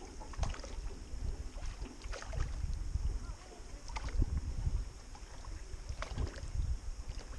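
Canoe paddling: paddle strokes splashing in the water about every two seconds, over a low steady rumble.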